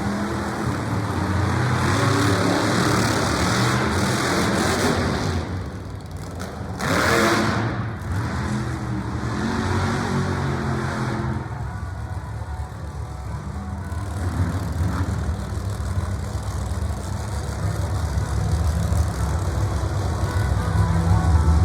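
A vehicle engine running and revving, rising and falling in pitch, with one quick rev about a third of the way in.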